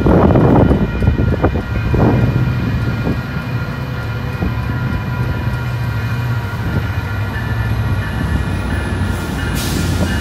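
Train approaching slowly, its locomotive running with a steady low hum and a few clanks from the wheels in the first two seconds. There is a short hiss near the end.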